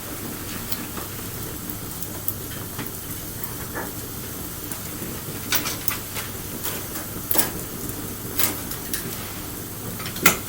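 Wood fire burning with a steady low rush, broken by sharp crackles and pops that come more often in the second half, the loudest pop near the end.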